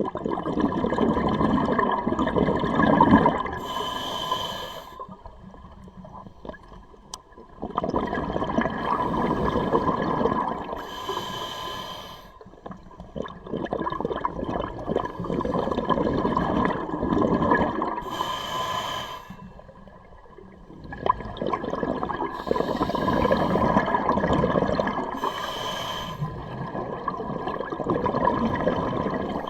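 Scuba diver breathing through a regulator underwater, about four breath cycles: long bubbling exhalations, each followed by a short hiss of inhalation through the demand valve.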